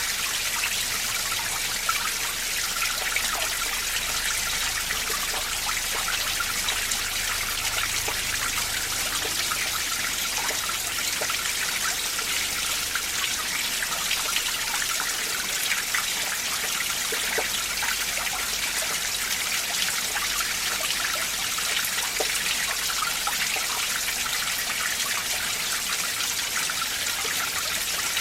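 Mountain valley stream running steadily: a continuous trickling rush of water with many small splashes.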